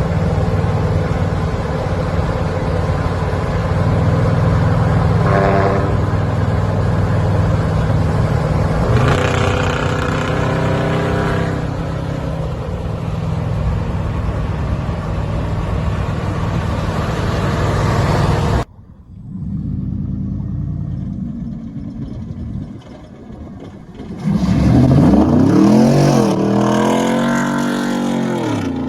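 Loud exhausts of lifted and squatted pickup trucks running, with engine tones swelling now and then. The sound cuts off suddenly about two-thirds through and comes back quieter. Near the end an engine revs hard, its pitch rising and falling several times.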